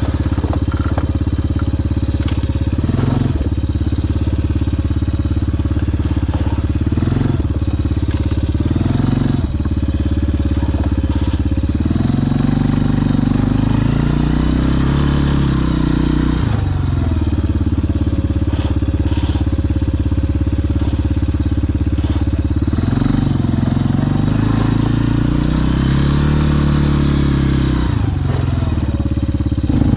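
Kodiak 400 ATV engine running while riding. Its pitch rises and falls as it is throttled up in the middle and again near the end, with a few knocks from the machine along the way.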